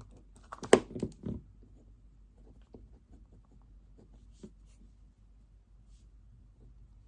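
A quick cluster of knocks and clatters about a second in, the first loud, as things are handled and set down on a desk, then only faint small ticks and scratches.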